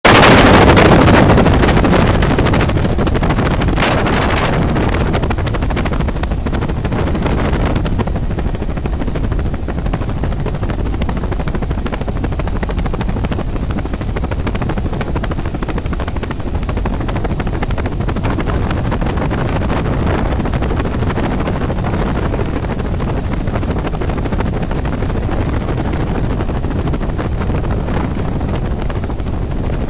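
Helicopter running in flight, a dense steady rotor and engine drone. It is loudest at the very start, eases off over the first few seconds, then holds an even level.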